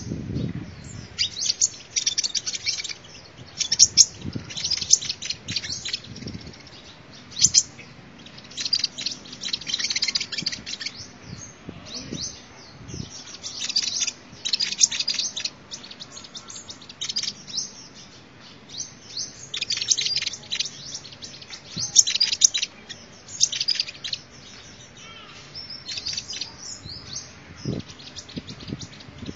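Sunbird song: short phrases of rapid high chirps and trills, each about a second long, repeated every one to two seconds, with a few faint low thuds.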